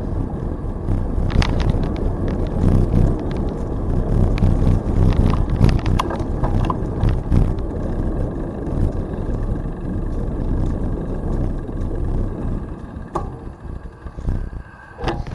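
Rumble and wind buffeting from a bicycle riding along a trail, with scattered small clicks and rattles; the noise eases a little near the end.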